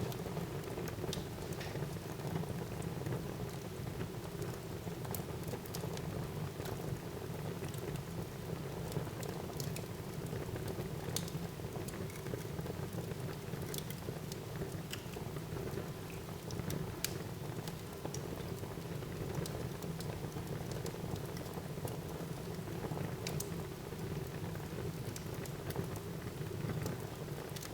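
Wood fire burning in a fireplace: a steady low rush of flames with irregular sharp crackles and pops scattered through it.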